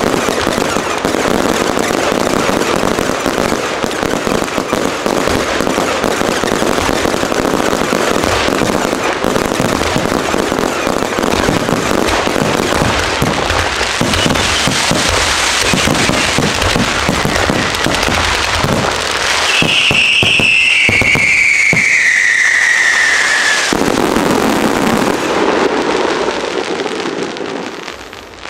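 Aerial fireworks display: a dense, continuous run of shell bursts and crackling. About twenty seconds in, a long whistle slides down in pitch, and the bursts die away near the end.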